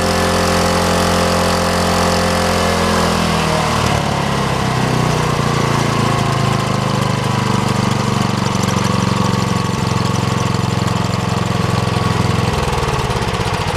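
Iwata CS-265P air compressor running with a loud, steady mechanical drone. Its note changes about three to four seconds in, and again shortly before the end.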